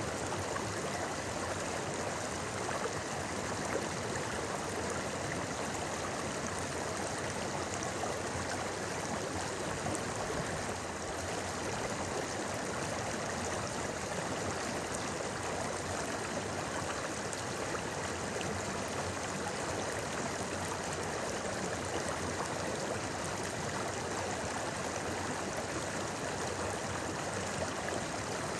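A shallow river or stream babbling and flowing steadily over rocks, an even rushing wash of water.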